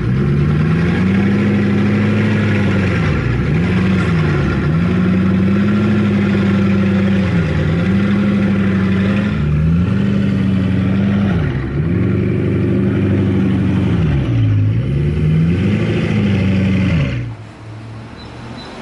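Bugatti Chiron's quad-turbo W16 engine running loud, its pitch repeatedly climbing, holding and dipping back as the car is driven on and off the throttle. The sound cuts off suddenly near the end.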